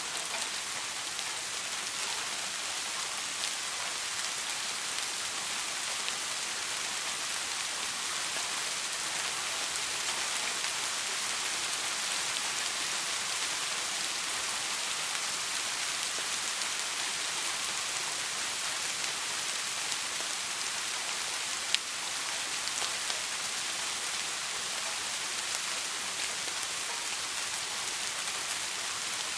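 Steady soft rain, an even hiss of drops falling on a surface, with no thunder. One sharp tap of a single drop stands out about two-thirds of the way through.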